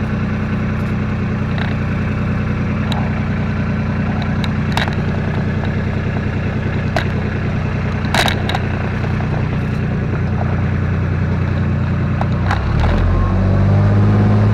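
Kubota RTV utility vehicle's engine running steadily under load on a slick hillside, with scattered clicks and knocks. Near the end the engine revs up and gets louder as the driver gives it more throttle, with the wheels spinning for traction.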